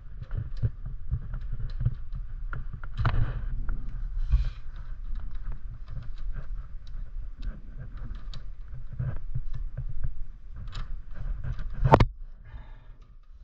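Bicycle chain and a tool being handled while the chain is joined: a continuous run of small clicks, rattles and knocks, with one sharp, louder click about twelve seconds in.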